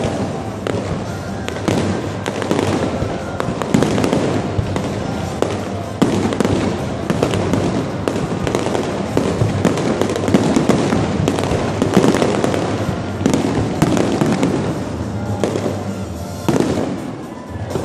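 Aerial fireworks going off in a rapid, continuous barrage of bangs and crackling bursts, thinning out briefly near the end.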